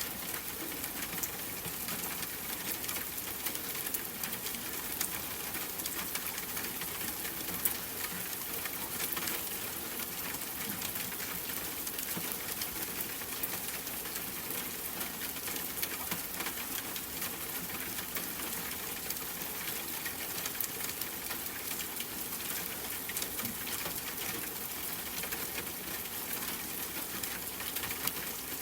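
Steady rain falling outside a window, an even hiss with many small drop ticks.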